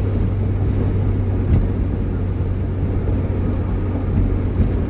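Steady engine and road drone heard inside a moving vehicle's cab while it drives through a blizzard in very strong wind, with a low, even hum and a couple of light knocks.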